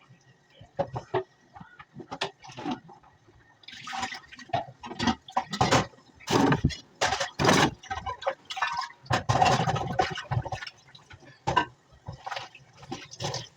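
Water splashing and pouring in irregular bursts, with a longer run of water about two-thirds of the way through.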